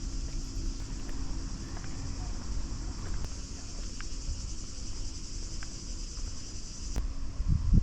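Steady insect chorus, a dense high-pitched chirring that cuts off abruptly about seven seconds in, over a low rumble.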